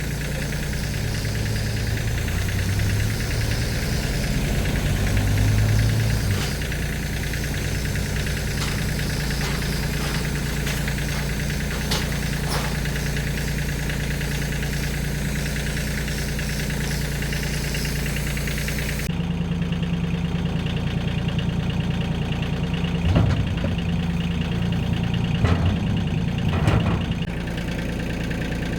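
Car engine idling steadily. The tone changes abruptly about two-thirds of the way through, and three short knocks or clunks stand out near the end.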